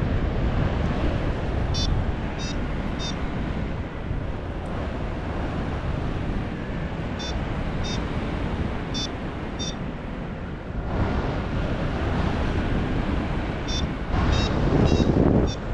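Wind rushing over an action camera's microphone in flight, with short high beeps every few seconds from a paragliding variometer signalling lift. The beeps come thickest near the end.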